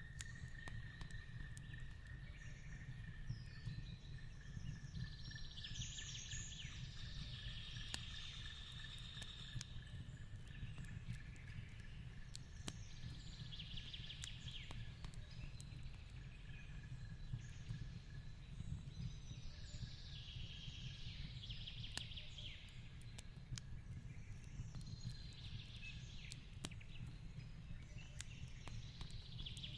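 Wood fire crackling in a fireplace: scattered sharp pops over a low, steady rumble. Bird calls come in short clusters about every six to seven seconds, and a thin steady high tone runs through the first half.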